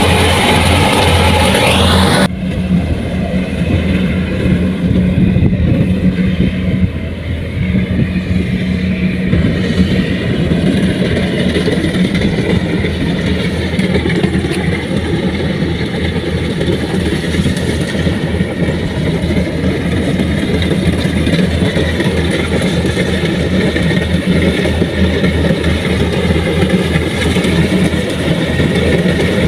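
Music that cuts off about two seconds in, then a large farm machine's engine running steadily.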